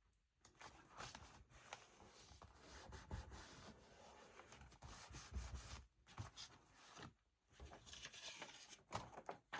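Faint paper rubbing and rustling, with small scratchy clicks, as a paper pocket is handled and pressed down onto a journal page.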